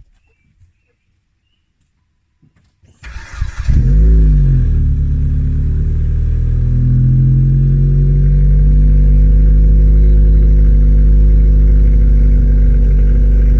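2007 Dodge Caliber's four-cylinder engine cranking and catching about three seconds in, flaring briefly in revs and then settling to a steady idle, exhaust still through the stock muffler.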